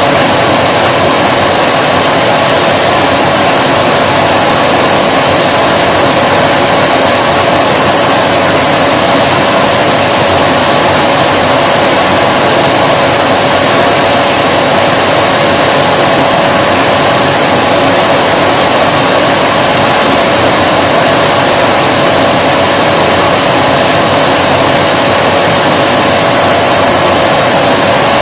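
Vacuum cleaner motor running continuously: a steady, loud rush of air with a constant hum and a high whine, never changing in pitch or level.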